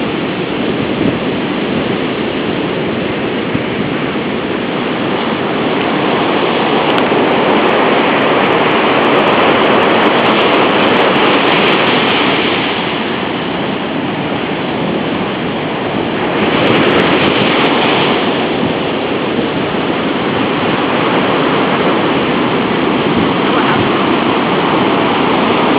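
Storm-driven surf and strong wind buffeting the microphone: a loud, continuous rushing noise that swells and eases as waves build and break.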